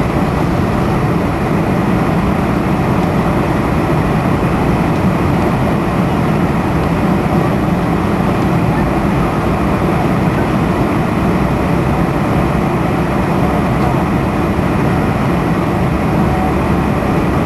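Steady jet engine and airflow noise inside an airliner cabin in flight shortly after takeoff, a constant low rumble with an even hiss above it.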